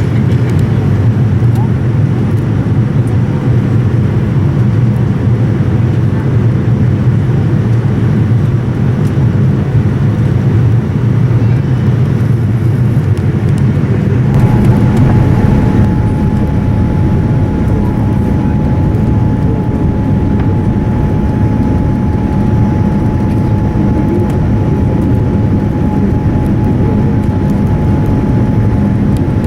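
Boeing 787-9 airliner cabin noise: a loud, steady, deep rumble of engines and airflow. A faint steady whine sits above it and jumps to a higher pitch about halfway through.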